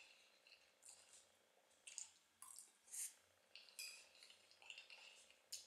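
Faint close-miked eating sounds: chewing with a string of short, wet mouth clicks and smacks, a handful of them spread unevenly through.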